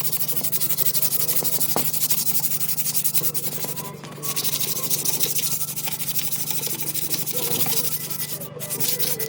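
Sanding on a steel knife blade: a steady, fast rasping hiss that breaks off briefly twice.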